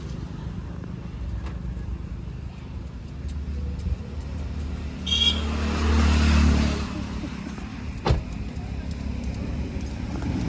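Car on the move: steady engine and road rumble, swelling louder for a couple of seconds past the middle, with one sharp click about eight seconds in.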